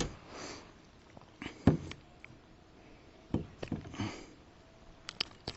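Scattered knocks, clicks and rustling from handling a freshly caught largemouth bass in a kayak, with a few soft breaths between.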